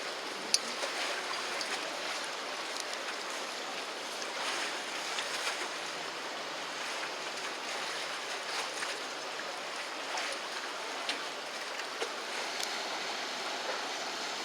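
River water washing and lapping against the bank in a steady rush, with small splashes and clicks scattered through it and one sharp click about half a second in.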